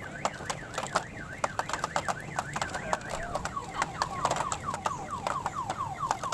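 Electronic siren-like warble, its pitch sweeping quickly up and down several times a second and changing to quick falling sweeps about halfway, with many sharp clicks throughout.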